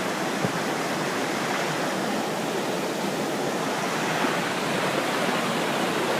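The Pistyll Rhaeadr waterfall, a loud, steady rush of falling water.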